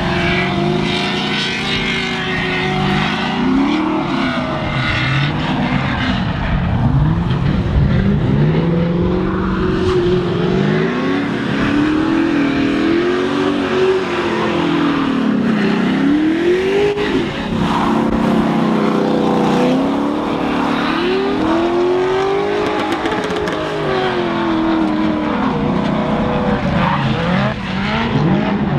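Drift car engines revving hard, their pitch rising and falling again and again as the throttle is worked, over a steady noise of tyres sliding on a wet track.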